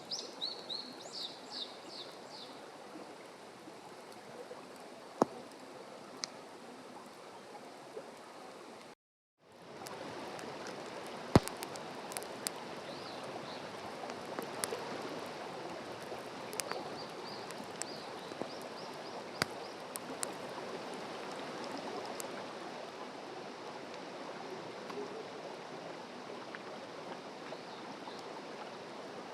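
Outdoor ambience of steady flowing water with a wood campfire giving scattered sharp pops and crackles, and a bird chirping quickly in the first few seconds. The sound drops out briefly about a third of the way through.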